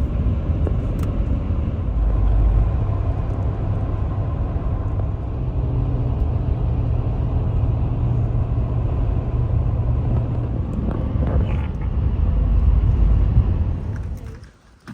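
Motor vehicle running, a steady low rumble with an engine-like hum that stops about fourteen seconds in.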